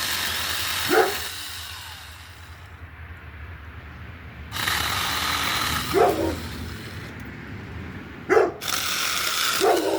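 Small battery-powered mini chainsaw running in three bursts as it cuts tree branches. Short, loud calls from an animal break in about five times, falling in pitch.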